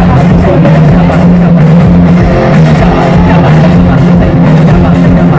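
Loud band music with a drum kit and guitar, played through a large sound system at a live show.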